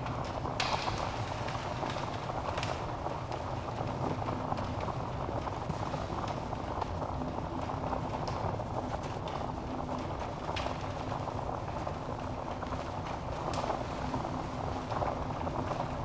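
Wood fire burning in a fireplace: a steady low rush of flames with scattered sharp crackles and pops from the logs.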